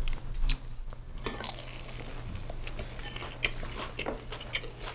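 A person biting into and chewing a freshly fried rice ball (wanjabap), with irregular small clicks of mouth and food noise.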